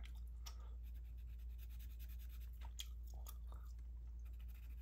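Gum chewing close to the microphone: a few scattered soft mouth clicks over a steady low hum.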